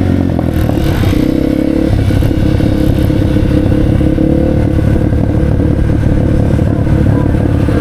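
A motorcycle engine running at a fairly steady speed, its low even note shifting slightly a couple of times.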